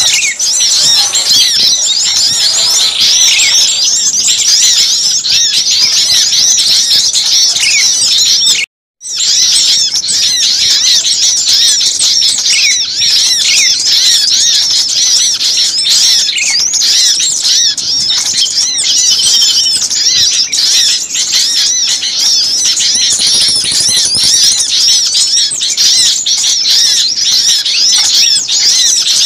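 A dense, agitated chorus of many small songbirds chirping and calling over one another at high pitch. This is the noisy mixed-bird lure call played to draw small birds in. The sound cuts out completely for a moment about nine seconds in, then resumes.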